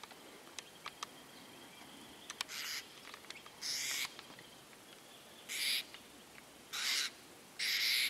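Apostle birds giving five short, harsh calls in the second half, roughly a second apart, with a few faint ticks before them.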